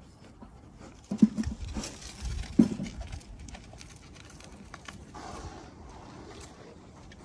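Goats moving right beside the microphone: two loud close-up bumps or snuffles about a second and two and a half seconds in, amid light hoof steps on dry dirt.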